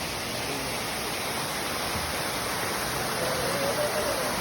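Waterfall rushing steadily, cascades of water pouring over rock.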